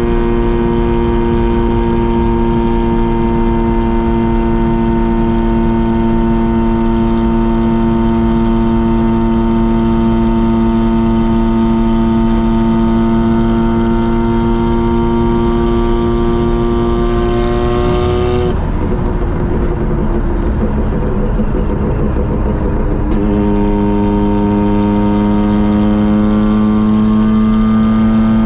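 Mazda RX-7 rotary engine and exhaust droning at a steady cruise, the note creeping slowly higher. About two-thirds of the way through the steady drone breaks into a rough, uneven sound for a few seconds, then the drone comes back at a lower pitch and climbs again.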